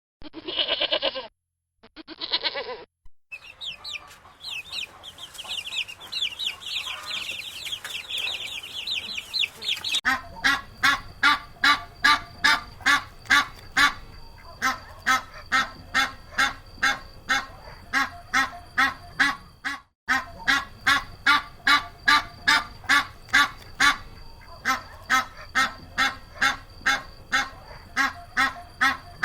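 Animal calls: two short calls, then several seconds of high chattering, then one pitched call repeated evenly about twice a second.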